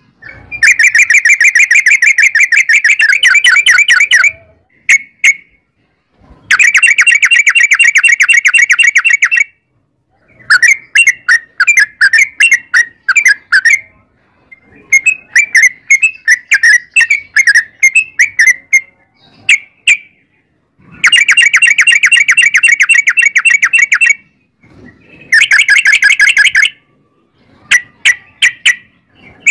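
Yellow-vented bulbul singing: long, very rapid rattling trills of three to four seconds each, alternating with choppier runs of quick chirps, with short pauses between phrases.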